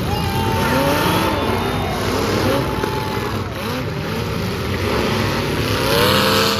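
Several demolition derby car engines revving up and down at once, overlapping, with a louder surge of noise about six seconds in.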